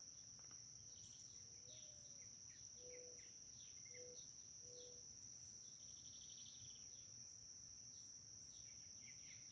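Faint steady chorus of crickets in near silence, with three faint short low notes a few seconds in.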